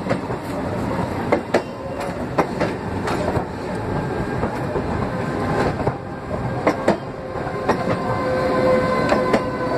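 BHEL-built EMU local train rolling past with a steady rumble, its wheels clacking sharply over rail joints at uneven intervals. A steady tone comes in near the end.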